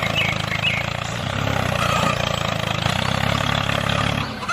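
A motor running steadily with a fast, even pulse, dipping briefly near the end.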